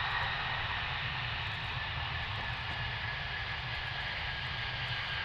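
Military jet aircraft engine noise: a steady rush with a low rumble and a high whine that slowly drops in pitch.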